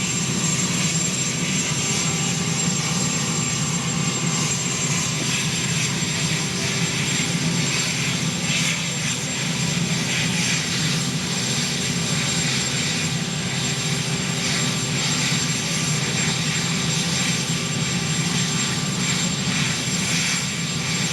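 Marine One helicopter running steadily, its turbine engines and rotor giving a constant drone with a thin high whine over it.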